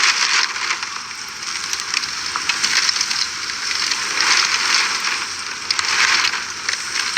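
Hurricane wind blowing: a steady rushing hiss that swells in gusts, loudest at the start and again about four and six seconds in.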